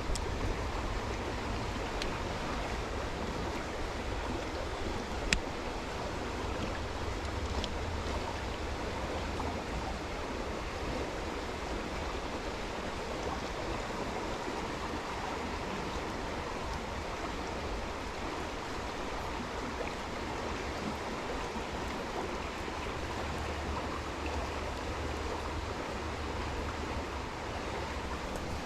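Steady rush of flowing water, with a low rumble underneath and a single sharp click about five seconds in.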